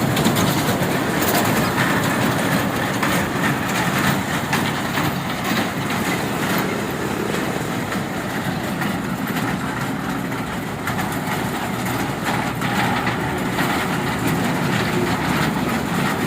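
Train running along the rails, heard from on board: a steady rumble with light clicking from the wheels on the track.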